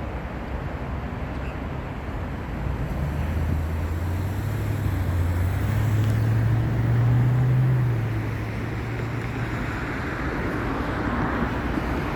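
Steady roadway traffic noise. A motor vehicle's engine drone swells from about three seconds in, rising a little in pitch, peaks near eight seconds and then fades, as of a vehicle accelerating past.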